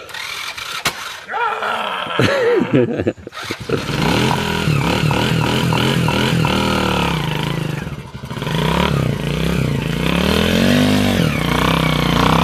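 Honda Win 100 motorcycle's 100cc engine, uneven with short revs for the first few seconds, then running steadily from about four seconds in, with a brief rise and fall in revs near the end.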